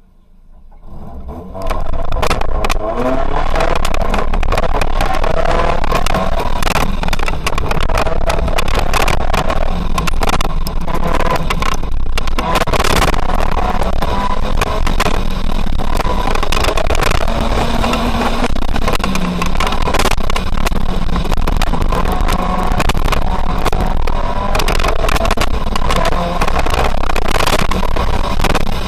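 Autocross car's engine pulling hard from the start, a second or so in, then revving up and down as it is driven flat out through the course.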